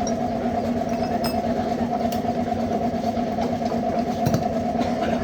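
A machine's motor running steadily, an even mechanical hum with a few faint ticks over it.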